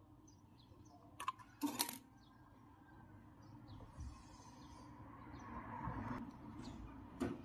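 Faint handling sounds of electrical wire joints being worked by hand: a few small sharp clicks about a second in, just before two seconds and near the end, with soft rustling in between.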